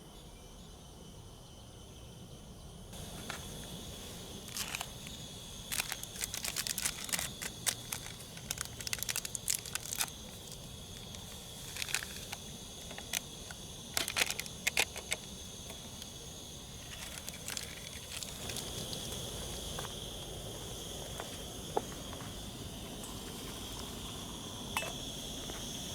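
A run of sharp crackling, crinkling clicks, thickest between about five and sixteen seconds in and sparser after, over a steady high-pitched drone.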